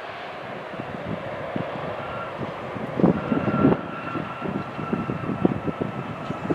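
Jet airliner engines passing close by: a steady whine comes in about two seconds in, joined by a low, crackling rumble.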